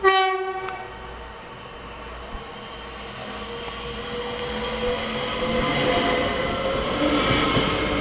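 Class 465 Networker electric multiple unit sounding one short horn blast, then its running and wheel noise growing steadily louder as it approaches.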